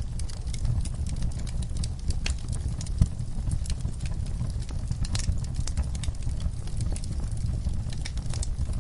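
Fire in a backyard fireplace crackling with irregular snaps and pops over a low steady rumble, one sharper pop about three seconds in.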